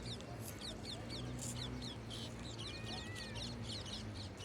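Birds chirping rapidly over a steady low hum, with one short whistled note about three seconds in.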